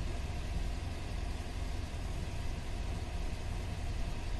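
Steady low rumble of an idling vehicle engine with a faint hiss, picked up by a police body-worn camera's microphone.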